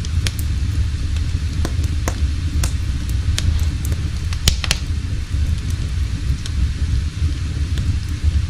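Wood fire crackling in a fireplace: irregular sharp pops and snaps over a steady low roar.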